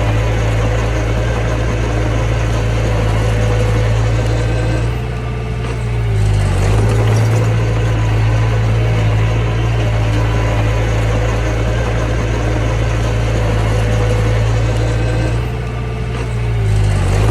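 Mini bulldozer's diesel engine running steadily under work, with a strong low hum; the note sags and shifts briefly about five seconds in and again near the end as the load changes, then picks back up.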